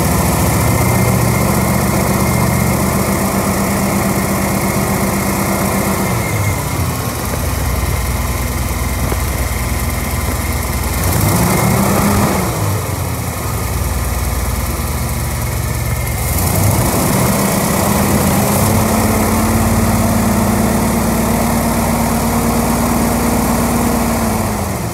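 Ford 302 small-block V8 stroked to 347 cubic inches, carbureted, running. It holds a raised speed, drops back to idle about six seconds in, blips up briefly near the middle, then holds the higher speed again for most of the second half before falling back to idle near the end.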